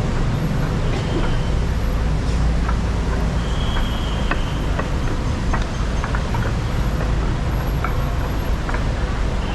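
A vehicle in motion: a steady low rumble with scattered clicks and rattles, and a brief high tone about four seconds in.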